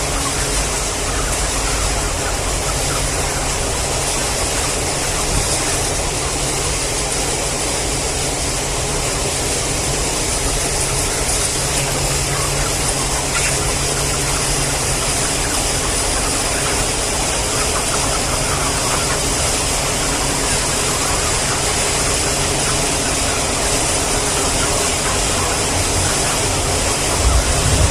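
Steady machine-like running noise with a constant hiss, unchanging throughout, with a louder low rumble near the end.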